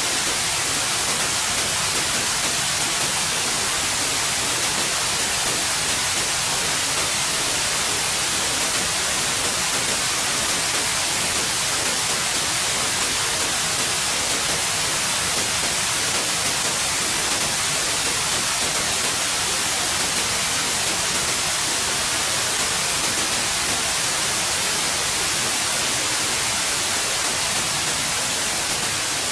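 Steady white noise: a continuous, even hiss with most of its energy in the highs, beginning to fade out near the end.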